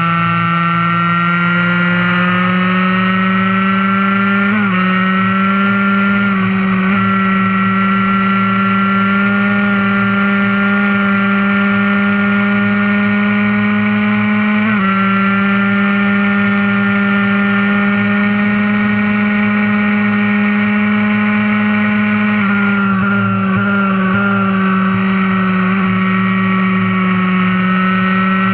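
Fully modified Honda NSR50's 50cc single-cylinder two-stroke engine running hard at high revs, its note creeping slowly upward. The pitch breaks briefly about five and fifteen seconds in, and wavers a few times around twenty-three to twenty-five seconds in.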